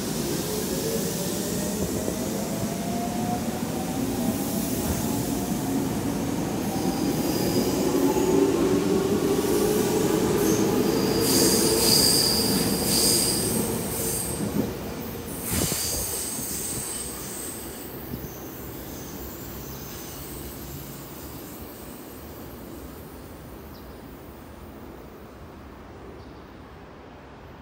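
Electric commuter train on the Semboku line pulling out: motor whine rising slowly in pitch as it gathers speed, wheels squealing briefly about halfway through, a sharp knock soon after, then the sound fades as it draws away.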